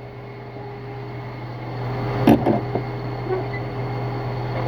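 Jeep's electric radiator cooling fan, hardwired to run constantly, running with a steady hum that grows slowly louder. Two sharp clicks a little past halfway.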